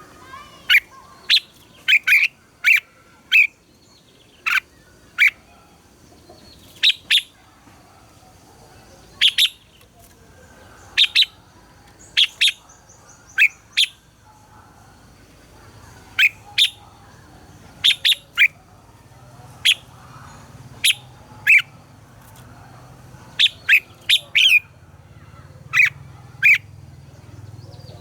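Red-whiskered bulbuls singing: short, sharp, clear notes, often in quick pairs, repeated at irregular intervals, with a faint low hum creeping in during the second half.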